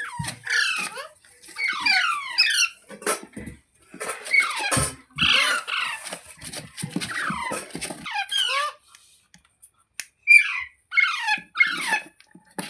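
Parrot squawking and chattering in rapid bursts of short, falling chirps, with a pause of about a second two-thirds of the way through before it starts again.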